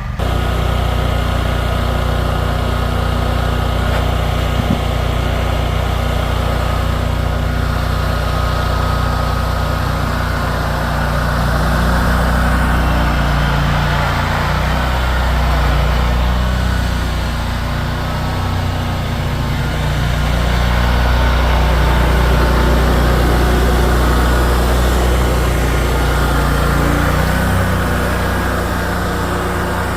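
An engine running steadily, its speed rising and falling now and then.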